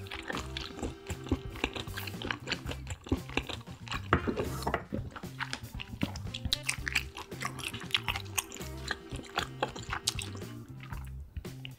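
Close-miked chewing of seafood: a dense run of short wet mouth clicks and smacks over steady background music.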